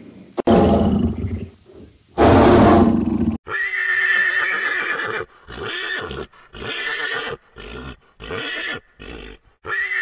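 A horse whinnying several times in a row, each call a high held tone with breaks between them, starting about three seconds in. Before that comes a loud rough burst of sound.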